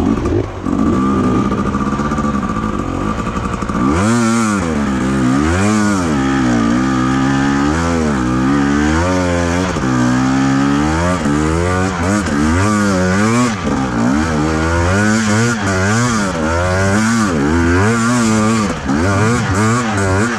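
Enduro motorcycle engine, steady for the first few seconds, then revving up and down over and over, about once a second.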